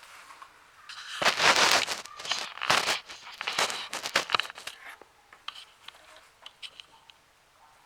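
Crinkling and rustling in a run of loud bursts lasting about four seconds, then fainter scattered clicks and rustles.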